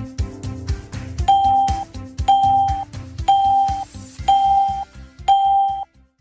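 Background music with a steady beat, overlaid by five electronic beeps about a second apart, each held about half a second: a countdown timer running out. The music stops abruptly just before the end.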